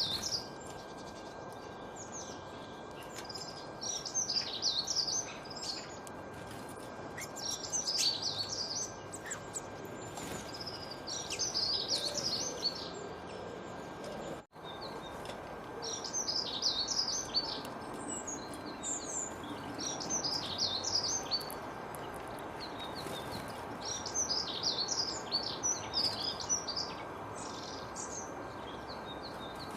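A songbird singing short, jumbled phrases of high chirps, repeated every few seconds over a steady background hiss. The sound drops out for a split second about halfway through.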